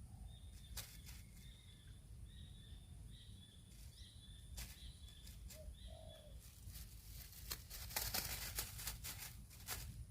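Birds calling: a small bird repeating short high chirps about twice a second for the first six seconds, with a couple of low dove-like coos around six seconds in. Near the end a cluster of clicks and rustling sounds over a low rumble.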